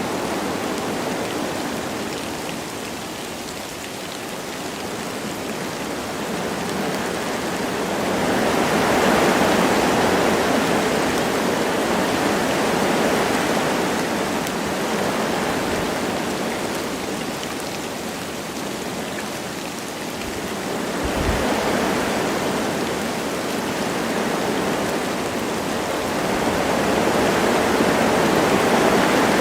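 Wind blowing through forest trees with light rain: a steady rushing that swells in gusts and eases off again, several times.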